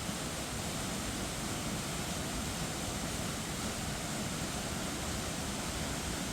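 Rushing water of a large waterfall: a steady, even roar of noise with no breaks or distinct events.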